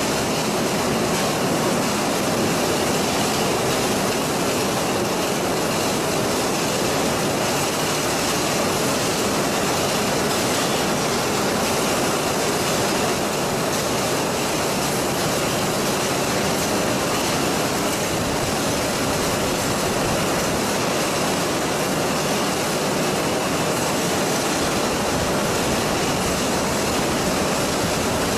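Steady, even noise of machinery running, with no rhythm or change.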